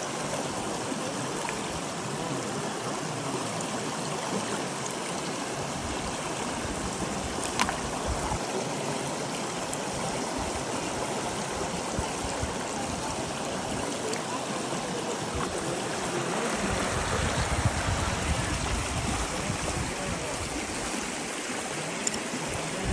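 Steady rushing of flowing stream water, with a brief low rumble about two thirds of the way through.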